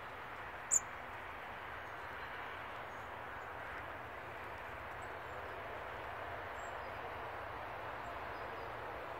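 One short, sharp, high-pitched bird call about a second in, followed by a few faint thin high chirps, over a steady outdoor background rush.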